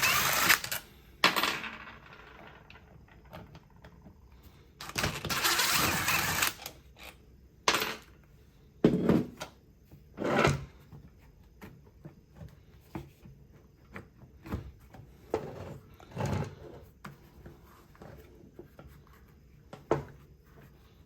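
Two short runs of a DeWalt cordless drill-driver with a T20 bit, backing screws out of a plastic power-tool housing, followed by scattered clicks and knocks of screws and the tool being handled.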